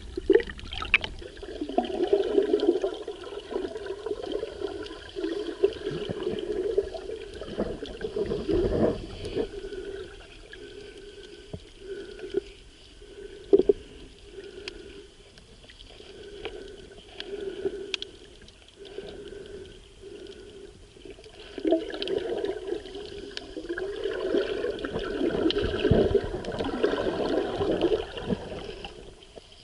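Seawater sloshing and gurgling around a camera filming underwater, muffled, swelling and fading in surges, with a few sharp clicks.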